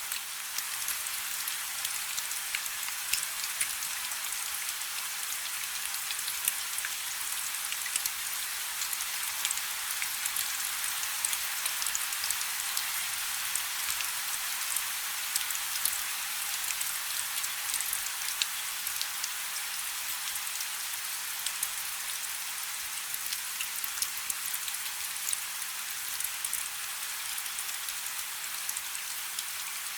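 Steady rain falling on a river: an even hiss of countless small drops, with sharper individual drop ticks scattered through it.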